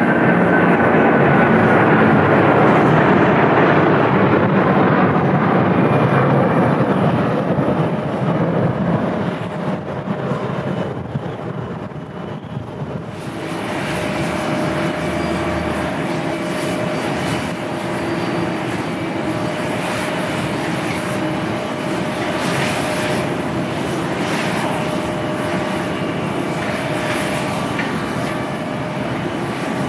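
Airbus A330-300 jet engines at takeoff power, loud at first, then fading with a slowly falling whine as the airliner climbs away. About 13 seconds in the sound changes abruptly to another jet airliner, an Airbus A321, arriving to land, with a steady engine whine over its rumble.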